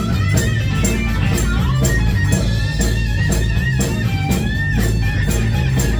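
Live rock band playing: electric guitars over bass and a steady drum beat with evenly spaced hits.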